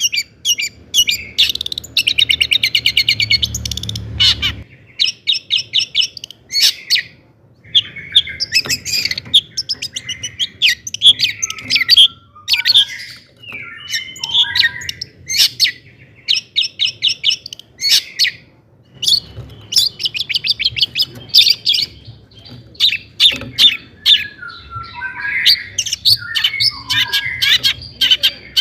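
Long-tailed shrike (cendet) singing a loud, varied song of fast trills and chattering phrases, mixed with notes imitating other birds.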